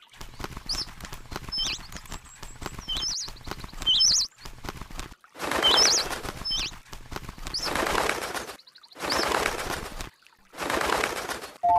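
A small bird chirping repeatedly, short sharp high notes about once a second. From about halfway, loud rustling bursts of about a second each break in, in the manner of wings flapping.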